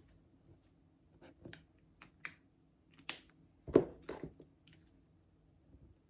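Irregular light clicks and taps, the loudest a dull knock about three and a half seconds in.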